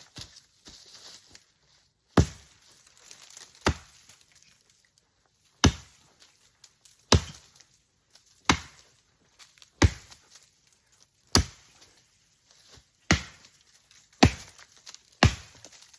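Axe chopping into a tree: about ten sharp, separate strikes, roughly one every second and a half, coming a little faster near the end.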